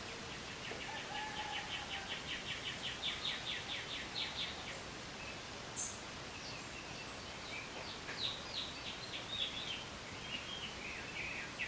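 Songbird singing: a rapid trill of about six notes a second that grows louder and stops about four and a half seconds in, followed by a few scattered chirps and another burst of calls, over a steady background hiss.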